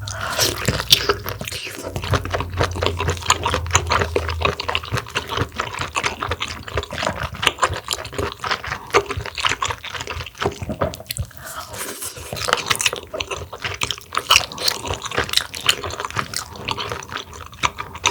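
Close-miked eating: wet chewing of large mussel meat, a dense run of quick smacking clicks and squishes.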